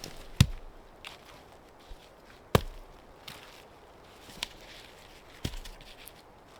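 Axe chopping wood: three heavy strikes roughly two and a half to three seconds apart, with lighter knocks between.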